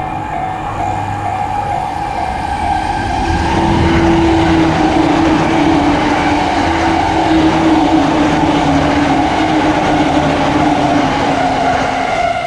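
Japanese level-crossing warning bell ringing in a steady repeating pattern while an electric train, a JR E235 series, passes from about three seconds in, its running noise with a motor whine that sinks slightly in pitch. The train fades near the end, leaving the bell.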